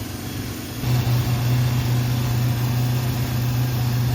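Freshly rebuilt 1972 Honda CB750 air-cooled inline-four engine running steadily, getting louder about a second in and holding there.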